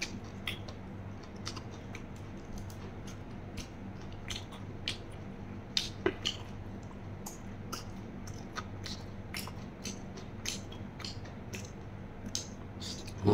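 A man chewing mouthfuls of raw beef koi, with scattered wet mouth clicks and smacks. A spoon scrapes and clinks on a stainless-steel tray. A faint steady low hum lies underneath.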